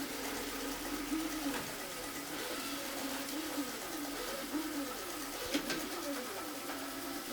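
Rowenta Explorer Serie 60 robot vacuum running, its motor hum wavering up and down in pitch as it works over a dusty, sandy floor, with a sharp click about five and a half seconds in.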